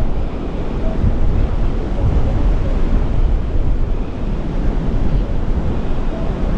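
Strong wind buffeting the microphone in a steady, loud rumble, with waves breaking in the surf behind it.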